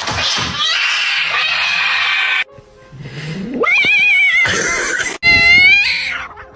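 A cat meowing in two long drawn-out calls: the first rises and then wavers, and the second comes about a second after it ends. A loud hissing noise before them cuts off abruptly.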